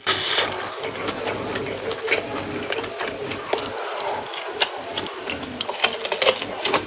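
Close-miked eating sounds: irregular crisp crunching and clicking of chewing crunchy raw vegetables.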